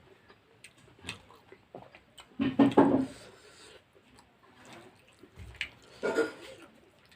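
Wet eating sounds of rice and curry: chewing, smacking and squelching, with a short louder sound about two and a half seconds in and another near six seconds.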